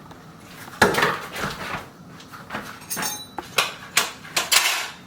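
A series of sharp clattering knocks, about seven over a few seconds, the first the loudest.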